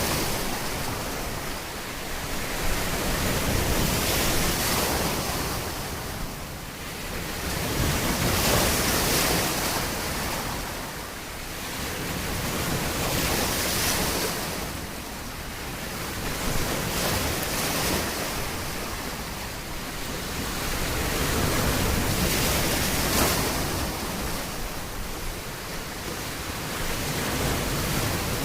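Surf washing onto a shore: a continuous rushing noise that swells and eases every few seconds as each wave comes in.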